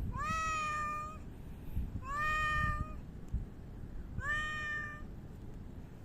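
A cat meowing three times, about two seconds apart, each call about a second long, rising at the start and then held level.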